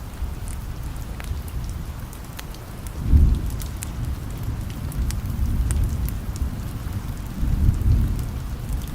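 Steady rain with distant thunder rumbling low, swelling about three seconds in and again near the end, with scattered small ticks over the rain.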